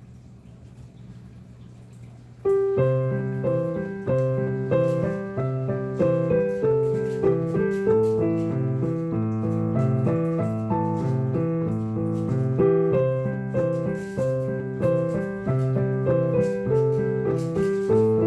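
Solo piano playing a jazz arrangement of a song melody, coming in suddenly about two and a half seconds in with a regular rhythmic bass line under chords and melody. Before it starts there is only a faint low hum.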